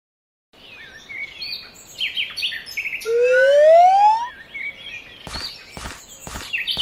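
Birds chirping, with a loud rising whistle-like glide about three seconds in, then evenly spaced thumps like footsteps, about two a second, near the end.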